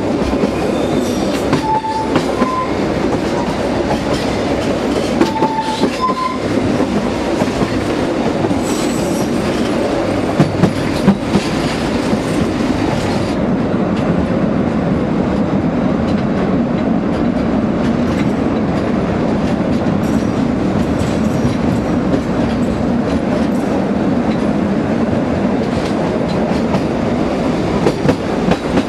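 Narrow-gauge (760 mm) train running steadily, wheels rumbling and clicking over the rails. Brief high squeals come in the first few seconds, and a few sharp knocks about ten seconds in.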